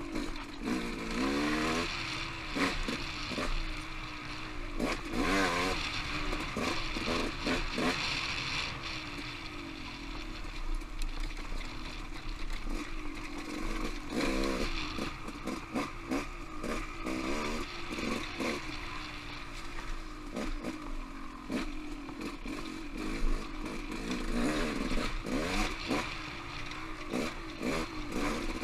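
Off-road motorcycle engine running on a trail ride, its pitch rising and falling again and again with the throttle, with frequent short knocks and clatter over the engine.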